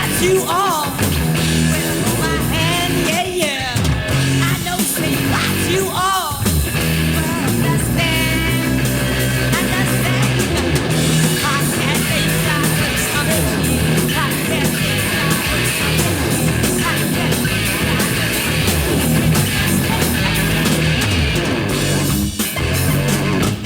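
Hard rock band recording: electric guitar, bass and drums, with lead lines that bend up and down in pitch in the first several seconds.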